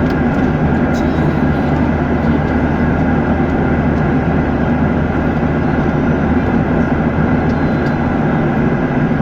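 Airliner cabin noise in flight: a steady, loud rushing drone of engines and airflow with a low hum, unchanging throughout.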